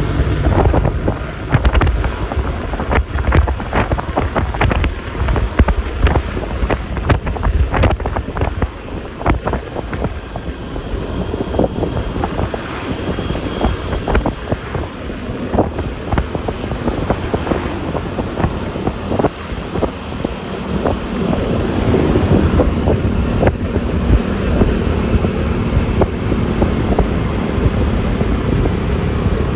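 Riding noise from a moving Yamaha Lexi LX 155 S scooter: wind buffeting the microphone with many sharp knocks, over the low hum of the engine and tyres. The hum grows stronger about two-thirds of the way through.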